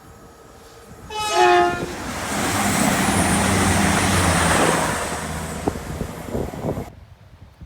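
A train sounds a short horn blast about a second in, then rushes past at speed over a level crossing. The passing noise builds to a peak and fades away.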